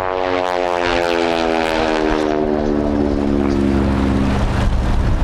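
North American NA-64 Yale's nine-cylinder Wright Whirlwind radial engine and propeller flying past, the engine note sliding steadily down in pitch as it goes by and fading near the end.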